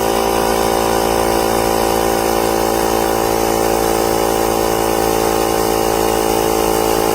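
Small piston air compressor built into a VTOMAN X1 jump starter, running steadily with a loud, even motor buzz.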